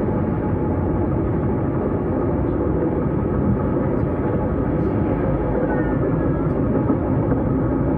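S-Bahn train running steadily along the line, a continuous rumble of wheels on rails and running gear. A faint, brief squeal sounds about six seconds in.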